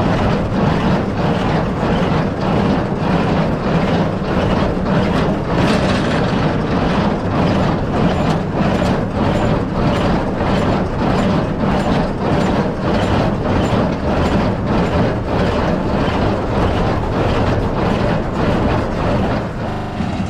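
Tractor running under load pulling a Case IH 8530 inline small square baler, the baler's plunger striking in a steady rhythm of about two strokes a second over the engine's drone.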